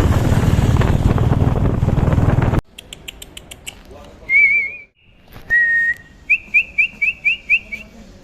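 Loud, steady riding noise from a motorcycle on the move, wind and engine together, cuts off sharply about two and a half seconds in. Clear whistled calls follow: a warbling note, a held note, then a quick run of about seven short rising notes, with faint ticks between them.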